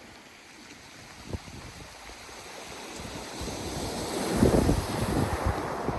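Sea wave on a pebble beach, building over a few seconds to a crash of surf about four and a half seconds in, then washing back. Wind buffets the microphone.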